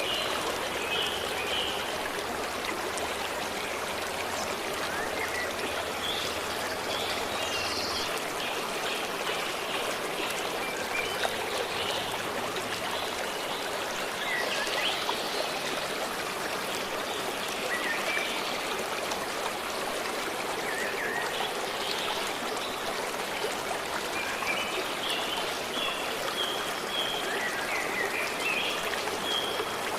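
A forest stream running steadily, with birds chirping now and then over it.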